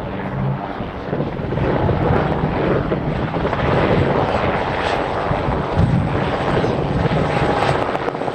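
Sikorsky S-58T helicopter, the twin-turbine conversion of the piston S-58, running close by with its rotor and turbine noise. It gets louder about two seconds in and then stays steady.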